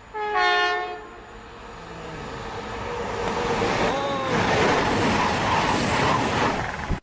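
A short pitched horn-like blast, then a loud rushing noise that builds steadily, with a brief wavering tone about four seconds in, and cuts off suddenly.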